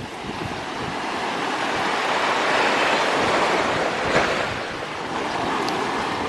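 Sea waves washing up on a beach, the surge swelling to its loudest a few seconds in and then easing off, with wind buffeting the microphone.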